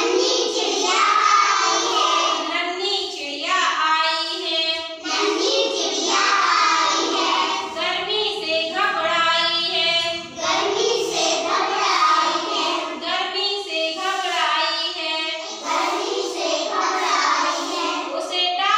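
Children singing a Hindi rhyme in chorus, line after line.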